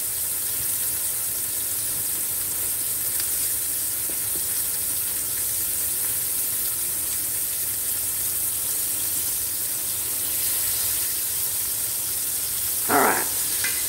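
Flour-dredged pork chops sizzling steadily in hot olive oil in a large skillet, with a brief louder burst near the end as another chop goes into the pan.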